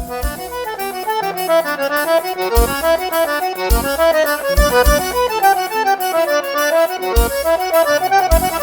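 Accordion playing a quick run of notes in a traditional festa junina tune, with deep drum beats now and then underneath.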